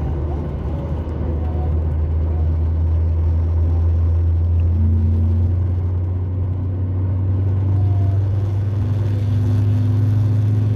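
Cabin noise from a Boeing 737 MAX 8's CFM LEAP-1B jet engines: a steady low hum that grows louder and edges slightly higher in pitch about two seconds in.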